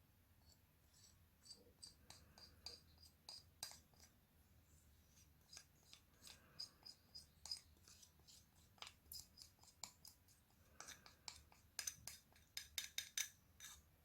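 Quiet eating sounds: cold bibim noodles with seaweed being chewed and handled, a string of small, sharp clicks a few times a second that come thicker near the end.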